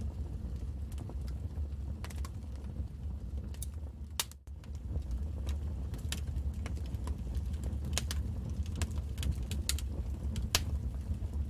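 Wood fire crackling in a fireplace: irregular sharp pops and snaps over a steady low rumble of the flames, with a brief drop-out about four seconds in and one louder pop near the end.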